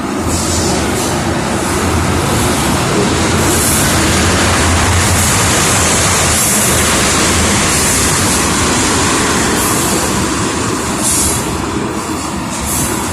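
Union Pacific freight train rolling past: a steady low rumble of wheels on rail with a high hiss that swells through the middle and comes back in brief patches.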